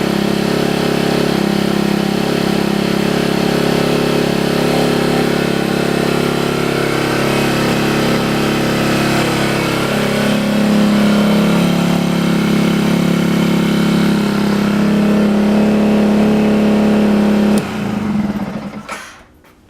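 Husqvarna TE125's Yamaha WR125R single-cylinder four-stroke engine running steadily at idle, a little louder from about ten seconds in. Near the end it is switched off and the sound dies away within a second or two.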